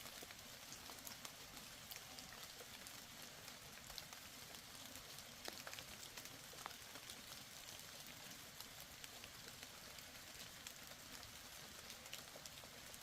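Faint, even background hiss with scattered light ticks, fading away at the very end.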